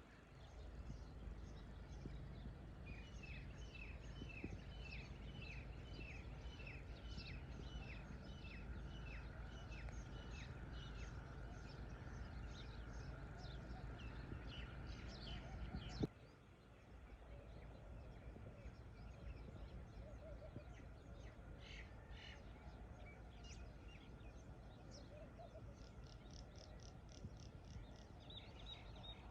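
Birds chirping: runs of short, quick, falling chirps, at first about two a second, over a faint low rumble. About halfway through, a click and the background shifts to a different, quieter bird ambience.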